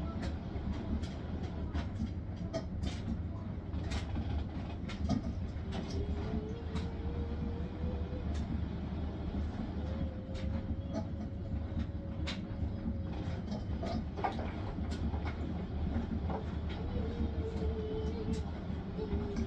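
Hisense washing machine on its spin cycle: a steady low rumble with many irregular clicks and knocks, and a faint whine that comes and goes three times, rising slightly in pitch.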